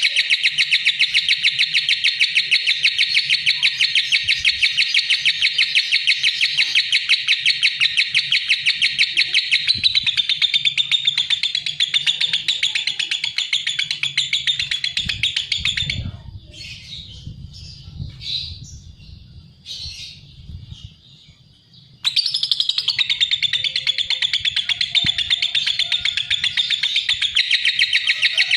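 Lovebird singing in a long, fast run of shrill chirps. About sixteen seconds in it breaks off for a few seconds of scattered, softer calls, then the rapid chirping starts again abruptly.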